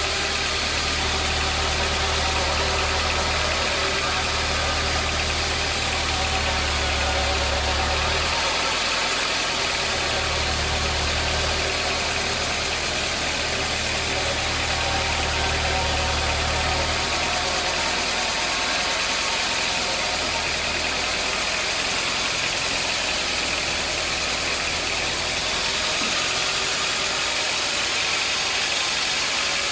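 Sawmill machinery running steadily with a loud, even noise and a deep hum underneath; the deep hum drops away about 17 seconds in.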